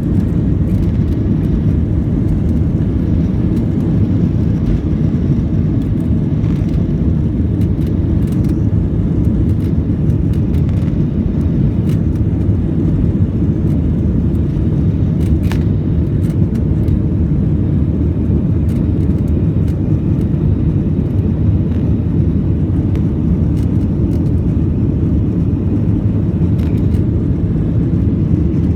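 Airliner cabin noise during takeoff: a loud, steady low rumble of the jet engines and airflow heard from inside the cabin, with a few faint clicks.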